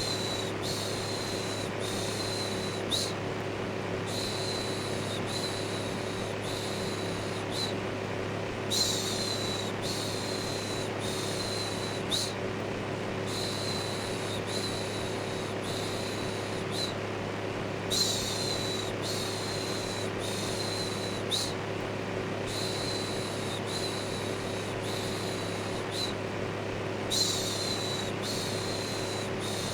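Steady electric fan whir with a low hum, overlaid with repeated hissing 'shhh' shushes about one a second, in runs of several with short pauses between runs.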